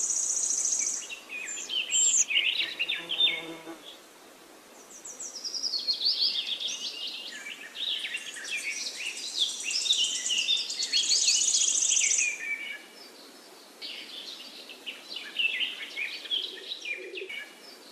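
Several songbirds singing together in a forest chorus: overlapping chirps, falling whistled phrases and fast, very high trills, with short lulls between bursts.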